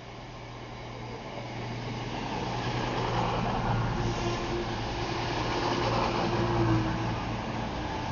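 A train coming through the station, its running noise growing steadily louder, with a steady low hum and a higher whine in the middle.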